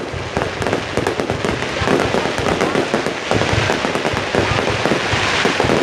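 Fireworks display going off: a dense, continuous barrage of bangs and crackling bursts overlapping with no pause.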